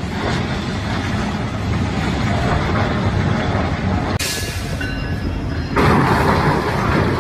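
Freight train running through a road crossing, a steady rumble of wheels on rail. A bit over four seconds in the sound cuts to a quieter stretch with a few faint high tones, then near six seconds in to a louder rush of another passing train.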